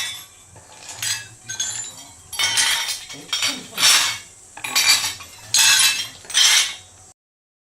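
Fired ceramic pieces knocking, clinking and scraping against each other as kiln-fired pots that have stuck hard are worked loose. The sharp ringing clinks come about once a second, and the sound cuts off abruptly near the end.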